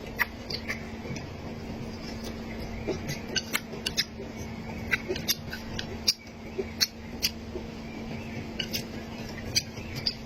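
A person eating close to the microphone: irregular crunching, clicking and snapping sounds of chewing, a few a second, over a steady low hum.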